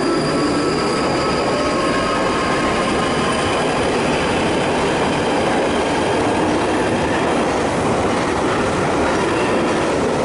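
London Underground Northern line tube train running through the station platform, with a steady loud rumble and rattle of wheels on rail. Faint high wheel squeal is heard early on and fades.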